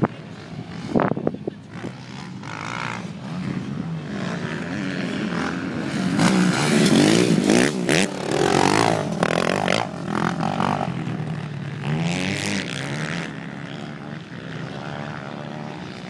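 Motocross bikes revving hard as they ride past on the track. The engine note swings up and down through the gears, loudest about six to ten seconds in, with another bike passing about twelve seconds in.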